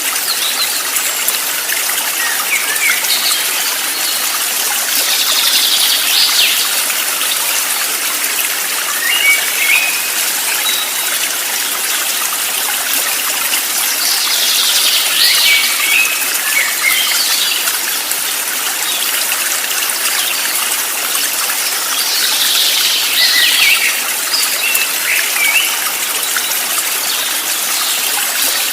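Steady rushing of running water, like a stream, with a cluster of bird chirps and calls coming back about every eight or nine seconds.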